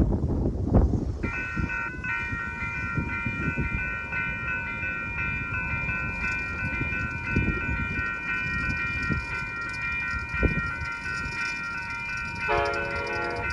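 A train passing, its low rumble and knocks under a steady, high-pitched multi-note tone that begins about a second in and holds. A lower-pitched tone joins it about a second before the end.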